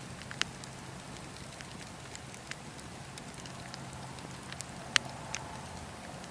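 Burning wood crackling: scattered sharp pops over a steady low rumble, the loudest pop about five seconds in.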